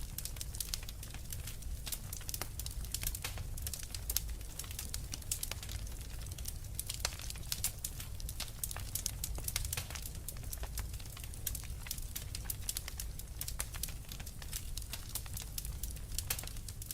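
Wood fire crackling with frequent sharp pops and snaps, over a steady low rumble.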